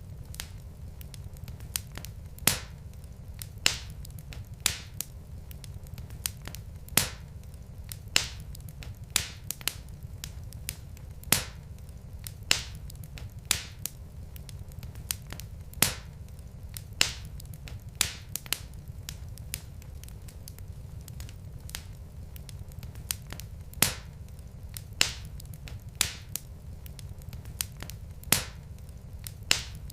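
Wood fire burning in a fireplace: sharp crackles and pops from the burning logs, at irregular intervals of about one a second, over a steady low rumble.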